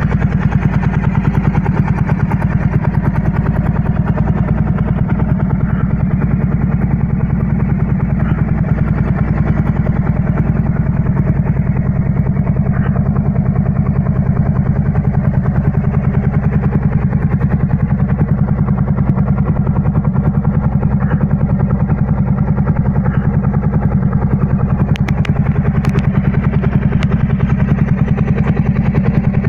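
Motorcycle engine running at a steady, unchanging speed, a fast even pulse of firing strokes with no revving.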